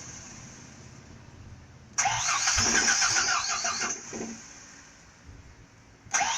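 Truck starter motor cranking the engine for about two seconds without it catching, then stopping. Another crank begins near the end.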